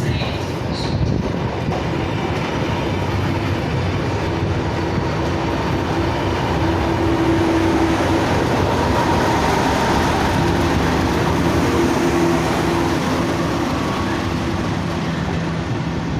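Diesel train running at the station: a steady, loud engine and rail noise with a few held engine tones that swell and fade midway.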